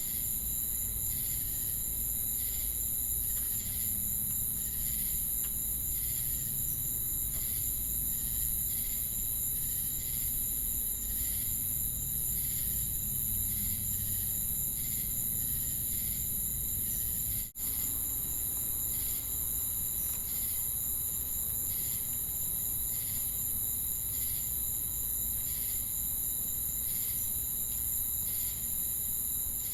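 Crickets and cicadas chirping together: a steady, very high-pitched continuous trill with rhythmic chirps repeating at regular intervals over it. The whole chorus cuts out for an instant a little past halfway.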